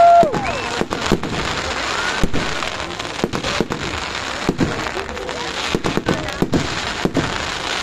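Festival fireworks going off: a rapid, irregular string of loud bangs and pops, over a steady crowd murmur.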